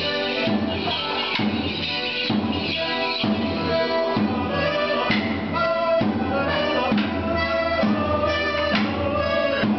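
A live folk dance tune for morris dancing, played by a band with a steady drum beat.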